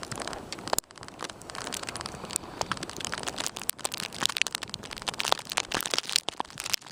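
Plastic bag taped over the camera crinkling and crackling against the microphone, a dense run of irregular sharp ticks and pops.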